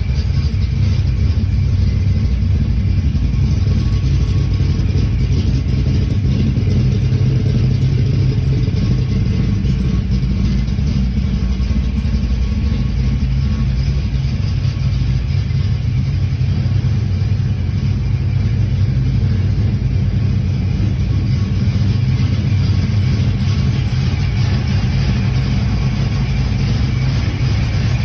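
ProCharger-supercharged Ford XB Falcon engine running steadily with a deep, even rumble, with no big revs.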